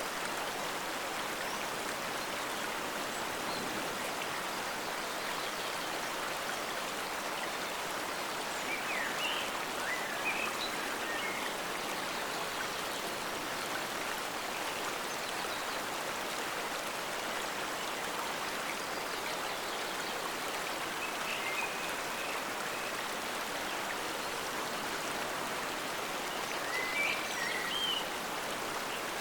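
Forest stream flowing steadily, an even rush of water, with a few short higher-pitched sounds standing out briefly about nine seconds in, around twenty-one seconds and near the end.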